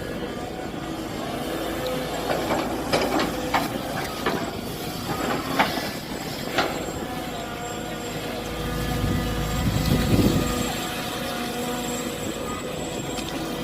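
Mini excavator running steadily while digging, with a run of sharp metallic knocks and clanks from the bucket and linkage in the middle, and a swell of lower engine sound near the end as the machine works under load.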